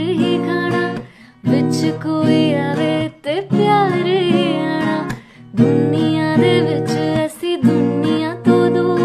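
A woman singing a slow, melodic song with vibrato, accompanied by strummed acoustic guitar. She sings in phrases broken by short pauses about every two seconds.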